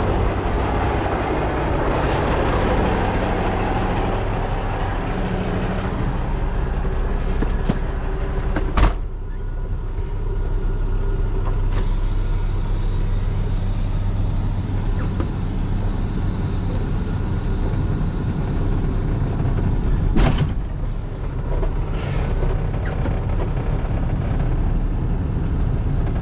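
Freightliner FLD semi truck's diesel engine idling steadily, with air hissing that fades over the first few seconds as the air-ride suspension airbags fill. Two sharp knocks, about nine and twenty seconds in.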